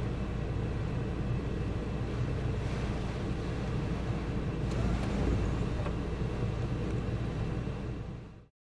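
Typhoon wind buffeting the microphone: a steady, uneven low rumble that fades out quickly near the end.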